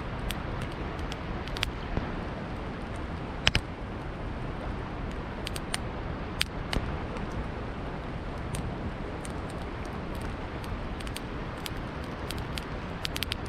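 Wood campfire crackling, with irregular sharp pops, one louder pop about three and a half seconds in. Beneath it runs a steady low rush of flowing river water.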